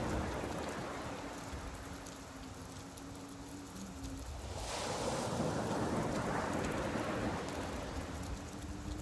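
Steady rain falling on a beach with surf washing in. The surf dips and then swells again about halfway through.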